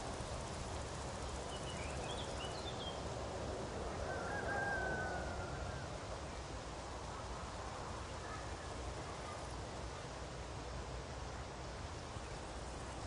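Meadow nature ambience: steady background noise with a few faint high bird chirps about two seconds in, then a longer, slightly falling bird call around four to five seconds in, and another faint call later.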